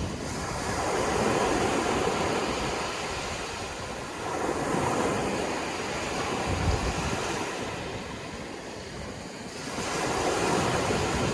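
Sea surf washing in and drawing back, its hiss swelling three times, each surge a few seconds apart.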